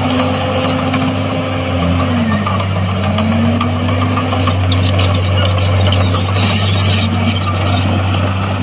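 Diesel engine of heavy earthmoving machinery running steadily and loudly. Its pitch dips briefly about two and a half seconds in and then rises again.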